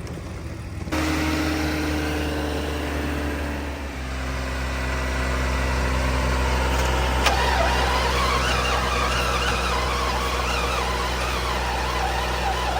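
1995 BMW 750iL's V12 engine cranked on the starter for about twelve seconds, firing and trying to run but not catching: a long no-start on a car revived after sitting flood-damaged. The engine sound starts suddenly about a second in and deepens about four seconds in.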